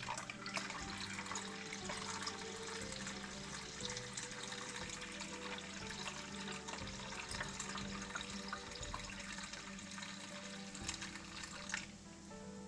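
Fresh goat milk pouring through a strainer into a glass jar, a steady running stream that stops near the end, with background music.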